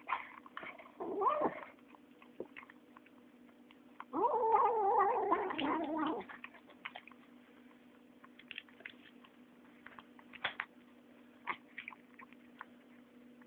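Nine-week-old kitten making its strange noise while eating: a short, wavering, pitched call about a second in, then a longer one of about two seconds around four seconds in. Soft clicks of chewing come between the calls.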